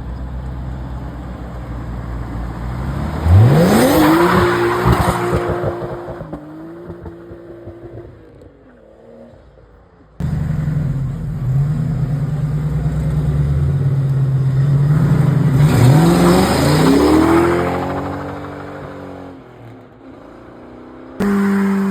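Cars accelerating hard away, each engine note sweeping sharply up in pitch as it revs out, then fading into the distance. Two such launches, the second starting abruptly about ten seconds in.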